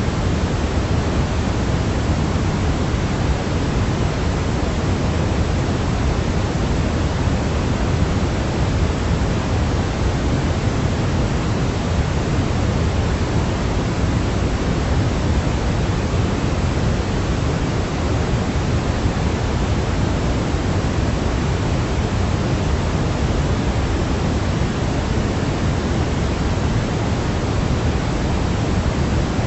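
Steady synthetic sleep noise, a continuous even hiss with most of its weight in the low range, unchanging throughout.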